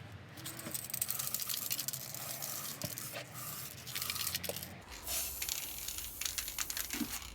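Aerosol spray-paint can hissing, mixed with clicks and rattles of handling.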